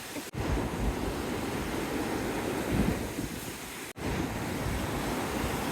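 Mountain stream water rushing steadily, with wind buffeting the microphone. The sound drops out abruptly twice, about a third of a second in and again near four seconds.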